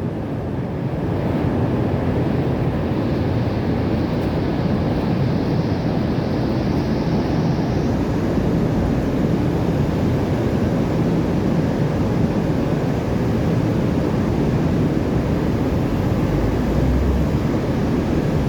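Boat engine running steadily under way, with wind and rushing water.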